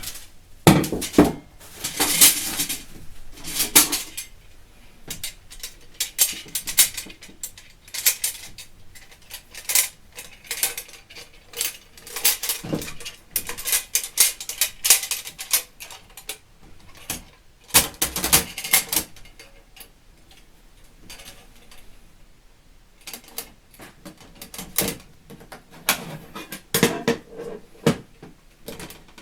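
Stainless steel fire pit parts clinking and clattering against each other as they are handled and fitted together, in irregular bursts of sharp metallic knocks.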